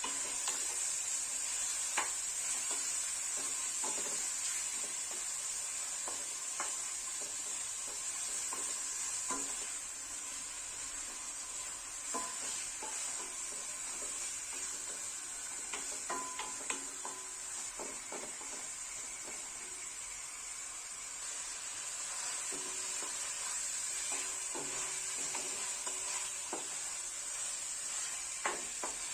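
Food sizzling as it fries in a hot pan while being stirred, with a utensil clicking against the pan now and then.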